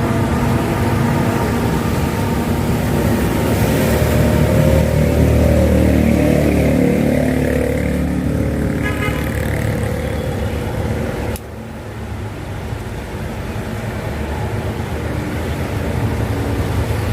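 Road traffic: motor vehicle engines running, with a sudden drop in level about eleven seconds in.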